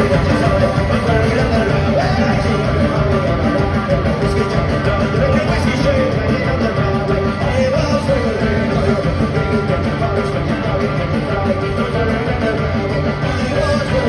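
Live folk-punk band playing loudly: driving drums, bass and guitars with a lead melody over them. There are no clear lead vocals.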